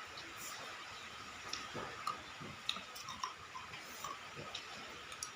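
A person eating spicy instant noodles: scattered small clicks of utensils with soft chewing and mouth sounds.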